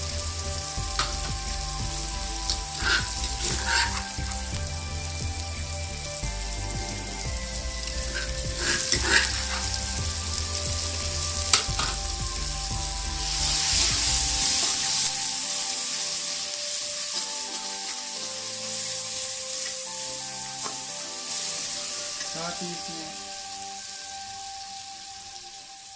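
Tomatoes, onions and green chillies sizzling in hot oil in an aluminium pot as ginger-garlic paste is stirred in with a steel spoon, with a few sharp clinks of the spoon against the pot. The sizzling grows louder about halfway through.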